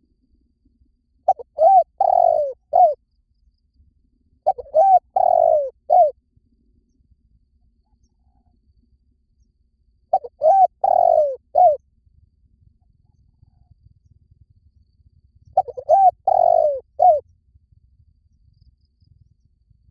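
Spotted dove cooing: four phrases a few seconds apart, each a couple of quick short coos, a longer drawn coo and a short closing coo.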